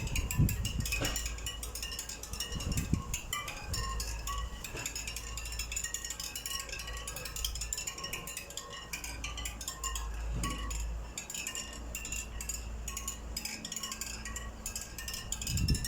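A twig wedged into a turning bicycle wheel's spokes, the spokes flicking past it in a fast, continuous run of clicks with short metallic pings.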